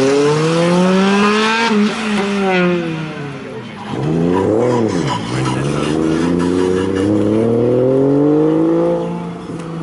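Car engines revving as cars drive off one after another. First a Subaru Impreza pulls away, its engine note climbing for about two seconds and then dropping. About four seconds in another engine gives a quick rev blip, then a car accelerates away with a steadily climbing note.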